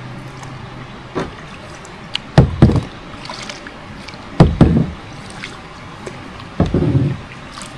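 Paddle strokes in water from a small paddled boat, a splashing stroke roughly every two seconds.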